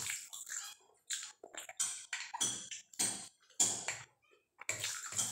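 Close-miked chewing of a mouthful of rice and curry: wet, smacking mouth sounds repeating about two to three times a second, with a short pause near the end.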